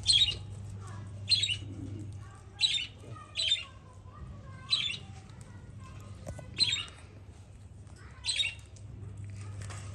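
Pet moustached parakeet giving short, harsh squawks, about seven of them spaced a second or two apart, over a steady low hum.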